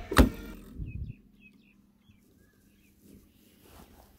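Small birds chirping faintly in the open air: a quick series of short, high chirps in the first couple of seconds, then only faint background.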